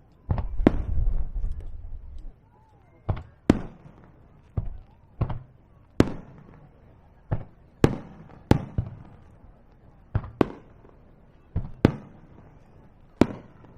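Aerial fireworks shells bursting in an irregular series of sharp bangs, roughly one a second, with a deep low rumble through the first couple of seconds.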